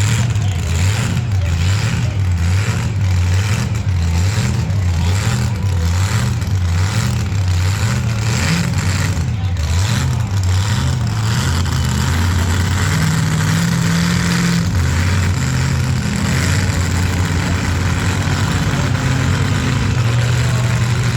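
Large truck engine idling with an uneven, pulsing beat about twice a second, raised briefly a little past the middle.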